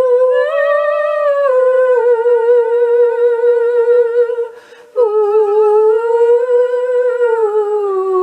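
A woman's voice singing a wordless melody with vibrato, in two long drawn-out phrases with a brief breath about five seconds in.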